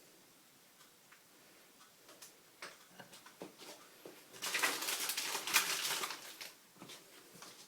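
Small clicks and taps from kitchen handling, then a rustling, hissing burst of about two seconds, as the cake is garnished on a plate.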